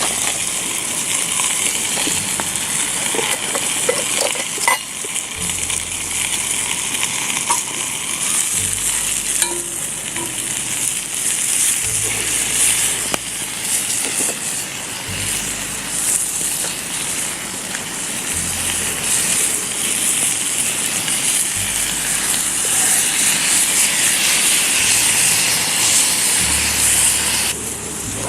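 Chicken sizzling in a frying pan with freshly added teriyaki sauce bubbling and cooking down to a glaze: a steady hiss with a few scattered pops.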